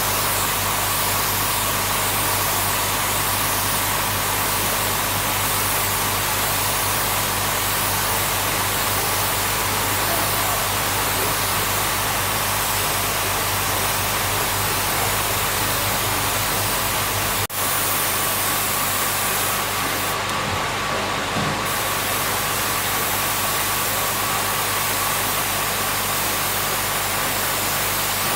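Steady mechanical running noise: a constant hum over hiss, with a brief break about two-thirds of the way through.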